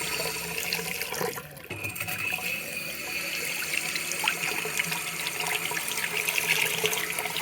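Water running from a waterfall-spout bathroom faucet into a shallow sink, steady apart from a brief drop in level about one and a half seconds in.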